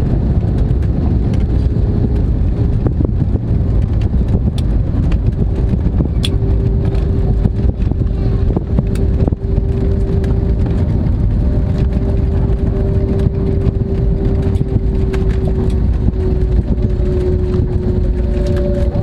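Airbus A320neo cabin noise: a loud, steady low rumble with a steady engine tone that grows stronger about six seconds in, and a few light clicks.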